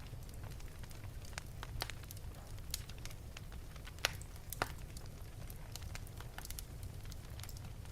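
Wood fire burning in an open fireplace, crackling with irregular sharp pops over a low steady rumble of the flames; two louder snaps come about four and four and a half seconds in.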